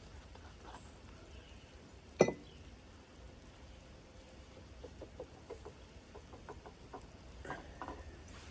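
A single sharp metal clank with a short ring, then a run of light metal clicks and clinks: the saw wrench and the loosened nut and collar being worked off the sawmill's mandrel shaft.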